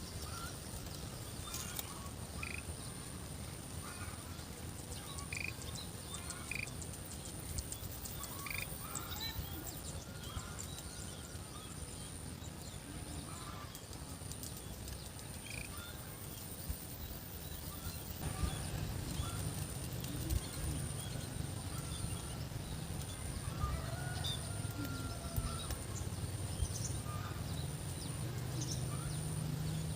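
Rural outdoor ambience: scattered short chirps and calls from small animals over a steady high thin whine. A low rumble comes in a little past halfway and stays to the end.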